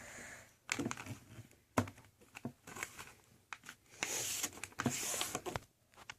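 A sheet of paper being handled and creased while a paper airplane's wings are folded: scattered light taps and crinkles, then two short rustles near the end.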